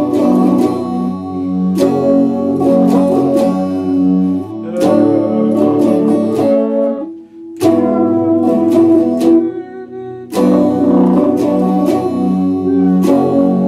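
Epiphone Les Paul Special II electric guitar strumming chords, struck again about every second or so, with short breaks about 7 and 10 seconds in.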